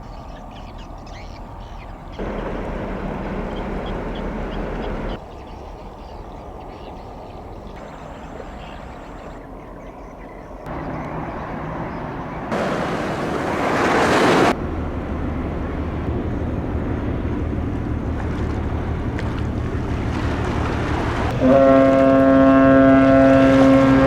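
Container ships' engines rumbling low, with water rushing, in short clips that cut abruptly from one to the next. About midway there is a loud rushing hiss for roughly two seconds. Near the end a ship's horn starts one long, steady blast.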